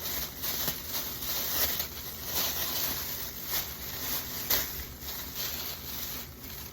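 Irregular rustling and light knocks of food bags and containers being handled and moved about.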